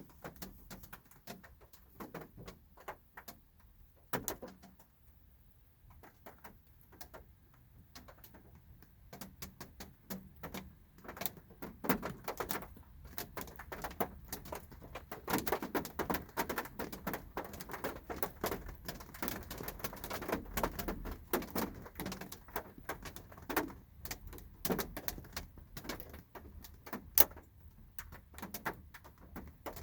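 Light rain drops tapping on a car's body, heard from inside the car: irregular ticks, sparse at first and growing denser through the middle.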